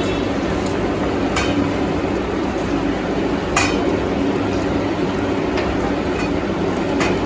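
Steady rushing kitchen noise from a gas stove and cooking curry, with three sharp clinks of a utensil against the kadai as fried potatoes are added to the simmering gravy.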